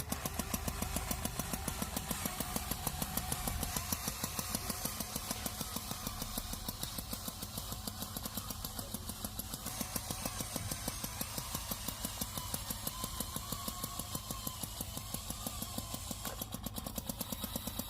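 Tractor engine running steadily at idle with a fast, even chugging beat.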